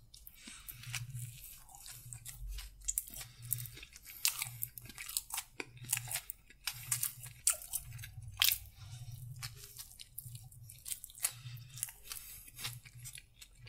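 A person chewing a mouthful of chicken submarine sandwich, with crunching and wet mouth clicks in a steady chewing rhythm of about three chews every two seconds.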